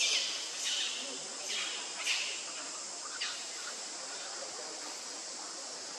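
Short, high calls that fall steeply in pitch, about five in the first three and a half seconds, then stop. Under them is a steady, high drone of forest insects.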